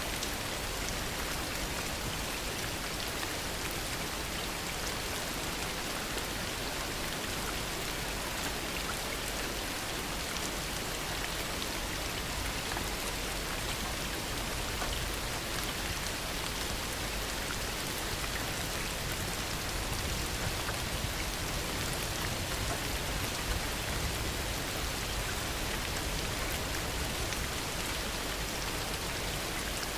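Heavy rain falling steadily, a dense even hiss of drops that swells slightly in the low end about two-thirds of the way through.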